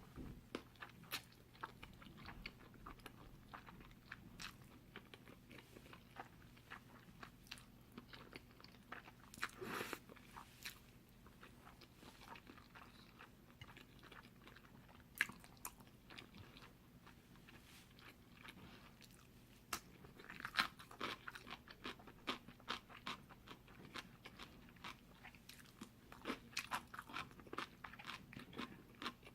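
Close-up eating sounds of chewy spicy cold noodles (jjolmyeon): steady wet chewing full of small clicks, with crunchy bites. There are louder noisy bursts about ten seconds in and again about twenty seconds in.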